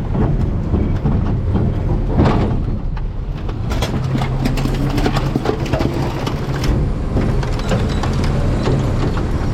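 Garbage truck running, heard from its rear hopper: a steady low engine rumble, with a run of sharp crackling and rattling from the trash load from about four to seven seconds in.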